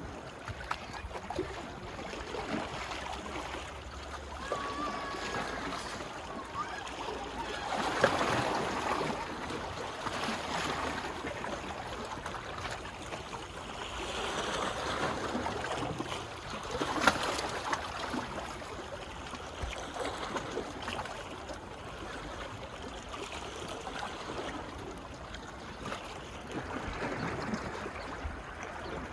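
Small sea waves lapping and washing on a beach, swelling and easing every few seconds. Two sharper splashes stand out, one about a quarter of the way in and one a little past the middle.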